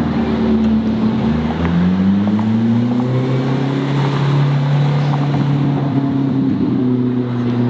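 A car engine running loud, its pitch climbing over a second or two as the revs rise and then holding steady, over a rushing road and wind noise.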